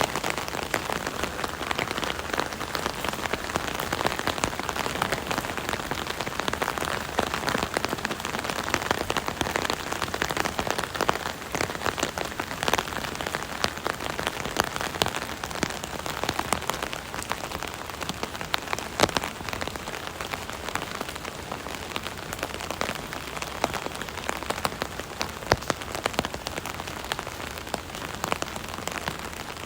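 Steady rain pattering on an umbrella canopy, with many separate drops tapping against the steady hiss of rainfall.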